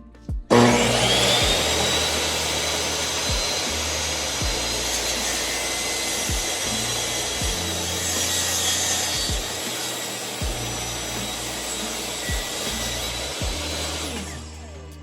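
Table saw cutting through a wood board: the motor starts suddenly with a rising whine, then the blade runs through the cut for about thirteen seconds before the saw shuts off and winds down near the end. Background music with a steady beat plays underneath.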